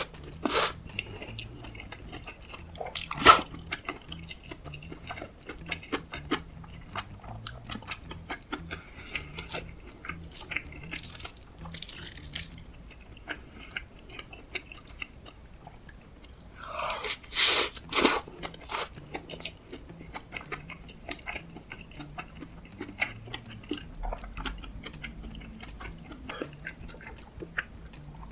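Close-miked chewing and biting of a person eating kimchi fried rice with cheese and sausages, with moist mouth noises and many small clicks. A sharp louder click comes about three seconds in, and a louder, noisier second or so comes around seventeen seconds.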